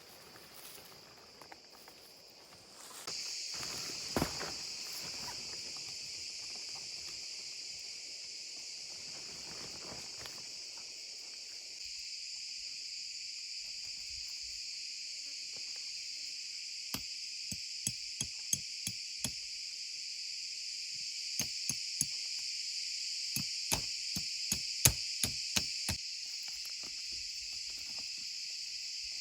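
Steady high-pitched chirring of crickets, coming in suddenly about three seconds in. Over it, in the second half, a run of sharp knocks or taps.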